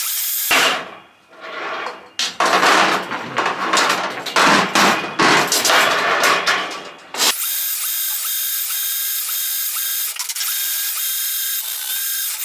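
Power drain-cleaning machine snaking a main sewer line: the spinning cable rattles and clatters irregularly for several seconds, then the machine settles into a steady high whine.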